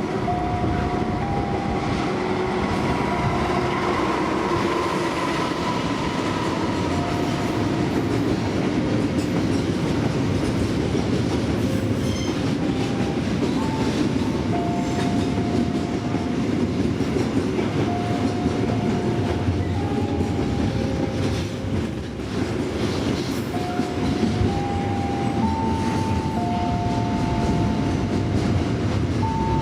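Freight train of steel-coil and container wagons rolling past, wheels rumbling and clattering over the rail joints. Short, steady squealing tones at shifting pitches come and go over the noise.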